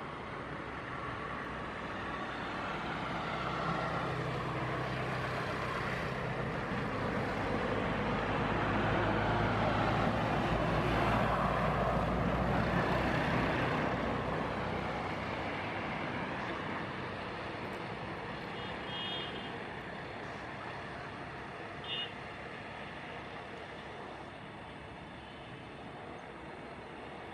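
Boeing 737-800's jet engines at taxi power, a steady rushing noise with a low hum that swells as the airliner passes and then fades away. A couple of short high chirps sound late on.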